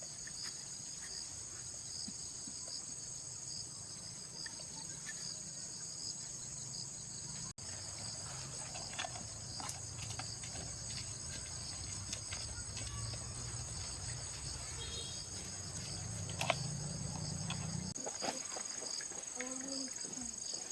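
Steady high-pitched chorus of insects, crickets or cicadas, with scattered light clicks and knocks of hand work in the second half.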